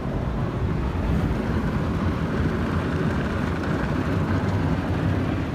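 WashTec SoftLine 2 tunnel car wash running, heard from inside the car's cabin: a steady rumbling wash of brushes and water against the car body.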